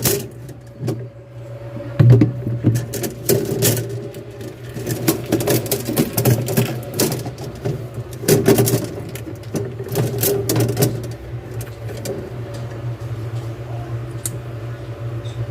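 Irregular clicks, knocks and rustling from refrigerator evaporator tubing and tools being handled while the tubing is coiled, over a steady low hum.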